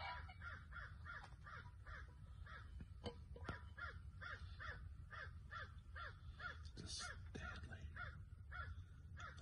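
Faint bird calls outside: a steady string of short calls, about three a second.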